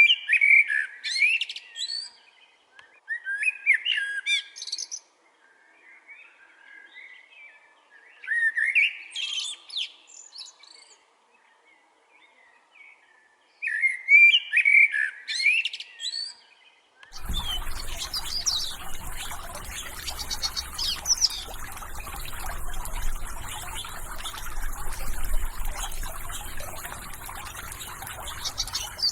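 Wild birdsong: a single bird repeats a short song phrase of about two seconds every few seconds, with silence between. About seventeen seconds in, the sound cuts suddenly to a dense chorus of many birds calling over a steady outdoor hiss.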